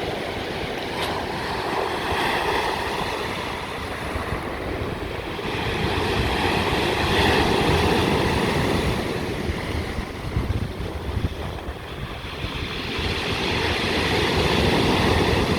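Sea waves breaking and washing on the shore, swelling and falling back every few seconds, with wind buffeting the microphone.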